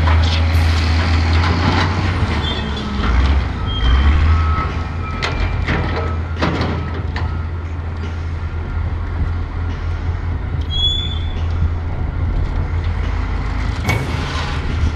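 Heavy diesel machinery running with a steady low engine rumble, with several sharp knocks and a few short high beeps over it.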